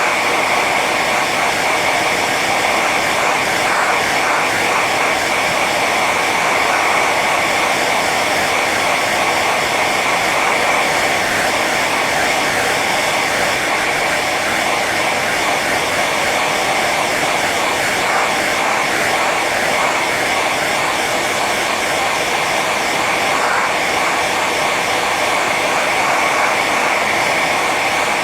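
Hair dryer running on its high setting, a steady loud blowing whoosh with a whine near the top, unchanging throughout.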